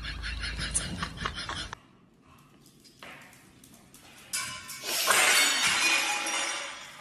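A crash of something breaking: a sudden shattering noise about four seconds in that swells and then fades away over the last two seconds.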